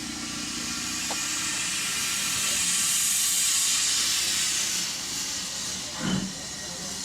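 Ivatt Class 2 2-6-2T steam tank locomotive letting off a steady hiss of steam that swells and then eases. About six seconds in comes a single exhaust chuff, the first of a slow series as the engine starts to move.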